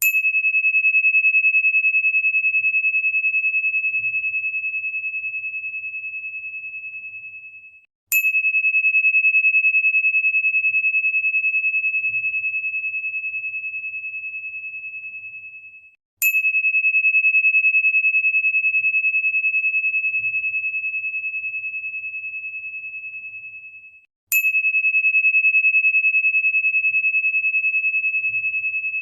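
A single high, pure bell-like tone, struck four times about eight seconds apart. Each strike opens with a brief bright ping, then fades slowly and cuts off just before the next one.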